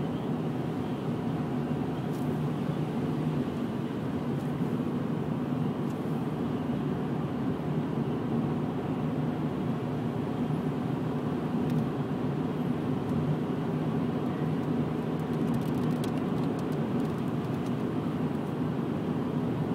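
Steady hum of a car driving, heard from inside the cabin: engine drone and tyre noise, even throughout.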